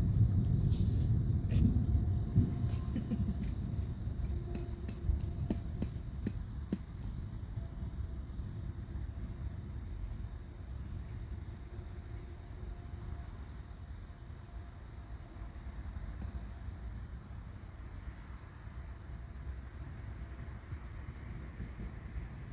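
Rolling thunder that fades away over the first several seconds, leaving a steady high chirring of night insects, with a few faint ticks early on.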